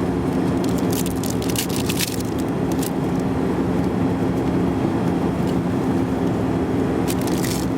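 Steady drone of a CRJ200 regional jet's cabin in flight, a constant rush with a low hum. Crinkling of a foil trading-card pack wrapper comes over it about a second in and again near the end.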